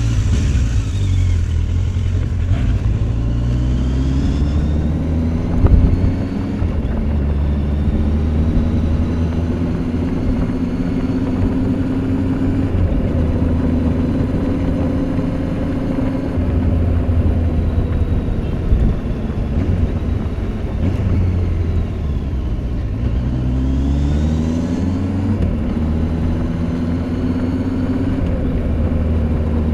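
Kawasaki Z800's inline-four engine running through its stock exhaust while riding. The revs climb over the first few seconds, then hold a steady cruising note, and climb again with another pull near the end.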